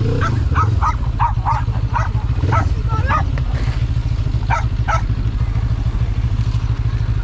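Benelli TRK 702's parallel-twin engine running steadily at a low idle, with a run of short, sharp calls over it: a quick series near the start, a few more about three seconds in, and two about five seconds in.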